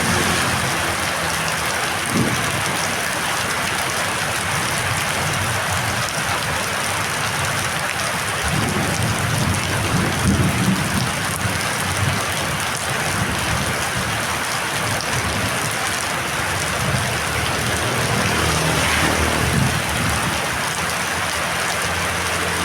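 Heavy rain pouring steadily, with low rumbles swelling up now and then.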